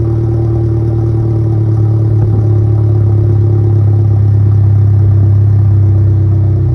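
BMW 118i engine idling after a cold start, heard through an exhaust with the resonator deleted: a steady, loud low drone.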